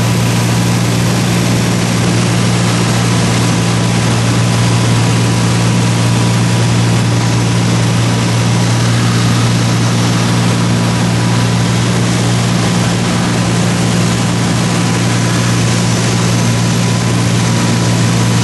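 Small propeller sightseeing plane's engine drone heard from inside the cabin, loud and steady with a deep hum and a wash of propeller and air noise.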